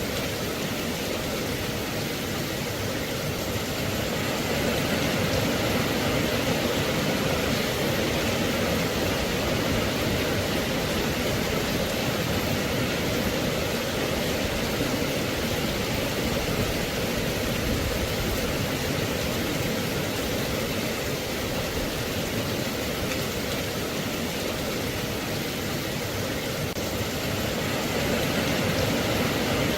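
Steady rain, an even hiss of rainfall without thunder or separate drips.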